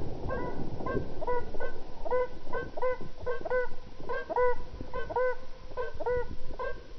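Birds honking over and over, two or three calls a second and often in pairs, with a low rumble of noise underneath.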